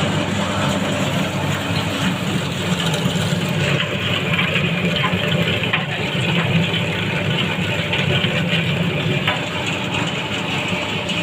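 30 kg tilting wet grinder running steadily: an even mechanical hum and whirr from its motor and turning drum, with a few faint ticks.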